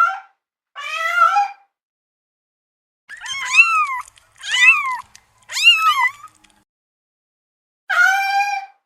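Domestic cat meowing repeatedly with clean silences between calls: two meows, a pause, then three higher meows in quick succession, each rising then falling in pitch, and one more meow near the end.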